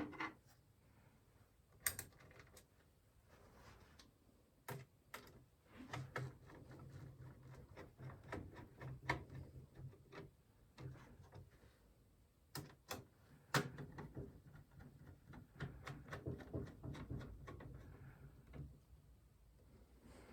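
Hands working on a Zalman P30 PC case: scattered sharp clicks and knocks, with stretches of busier small clicking and rustling in between.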